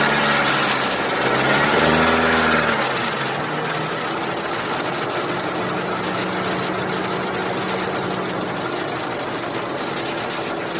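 Chevrolet Cruze 1.8 four-cylinder petrol engine running with a ticking and squeaking noise. The pitch rises briefly and falls back about two seconds in, then the engine settles to a steady idle.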